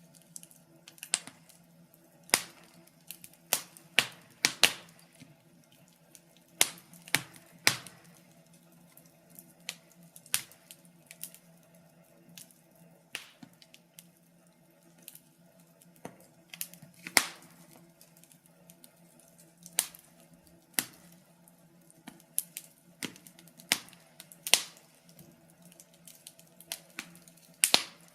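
Wood fire crackling in a fireplace: irregular sharp pops and snaps, several every few seconds, over a faint steady low hum.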